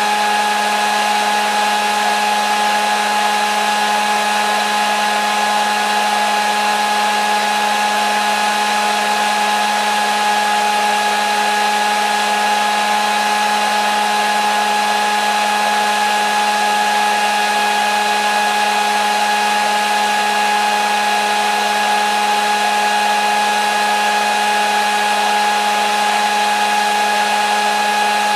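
Electric hair dryer running steadily: an even rushing whoosh of air with a constant motor whine and no change in speed.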